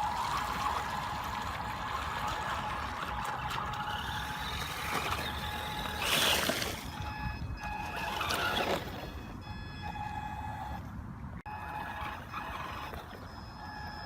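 Small RC truck's 390 brushed electric motor whining as the truck runs through water, with splashing and gurgling. The loudest splashes come about six and eight and a half seconds in, and the motor's pitch shifts after that.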